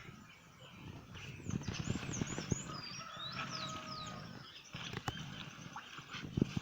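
Birds chirping, a quick run of short high chirps between about one and a half and three and a half seconds in, over a low outdoor rumble with a few clicks near the end.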